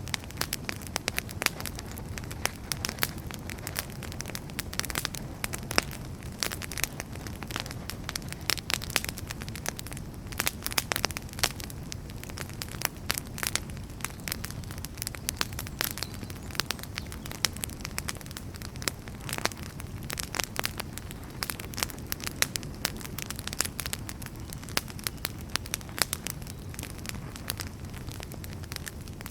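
Wood fire burning in a fireplace, with a low steady rumble of flame and frequent irregular crackles and pops from the burning firewood.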